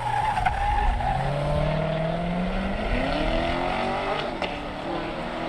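Chevrolet Corvette engine accelerating hard. Its pitch climbs, drops at a gear change about three seconds in, climbs again, then settles lower near the end.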